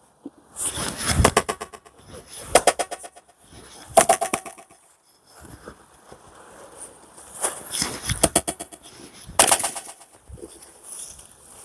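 Fiskars XXL hammer axe striking knotty pine rounds: about six heavy blows, each trailed by a rapid, strongly echoing flutter.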